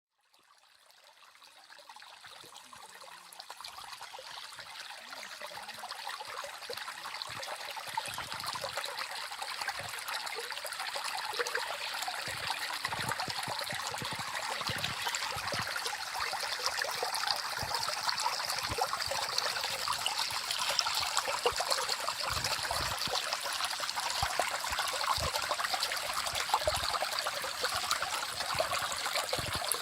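Small forest stream trickling and babbling, fading in from silence over the first several seconds, then running steadily.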